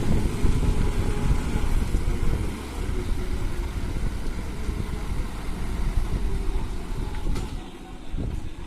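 Heavy lorry engine running with a steady low rumble.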